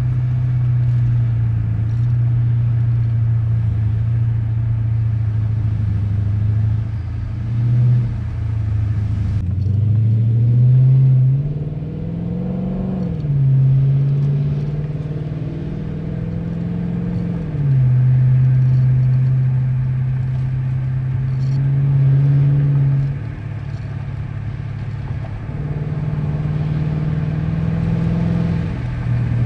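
2013 Dodge Charger's engine and exhaust while driving, holding a steady note. About ten seconds in it rises as the car accelerates, then drops back at a gear change, with several smaller steps up and down in pitch later.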